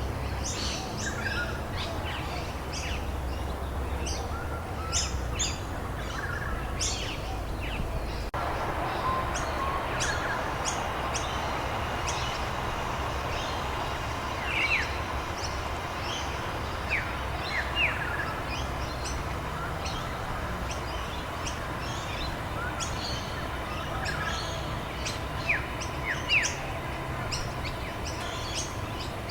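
Many small birds chirping and calling over a steady hiss of rain. The background changes abruptly about eight seconds in.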